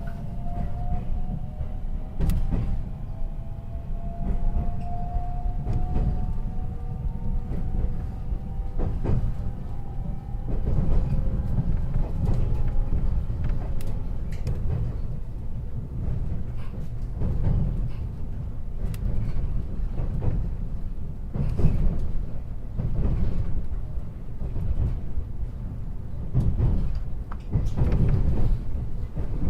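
Running sound inside the motor car of a 521 series electric train, KuMoHa 521-24: a steady low rumble from wheels and track. A thin whine from the traction motors rises slowly in pitch over the first dozen seconds as the train gathers speed. Sharp clicks and knocks from the wheels on the rails come at irregular intervals.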